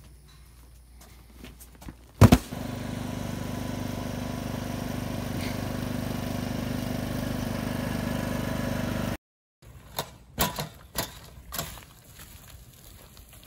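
A loud knock, then a steady machine hum for about seven seconds that cuts off abruptly, followed by a few light knocks.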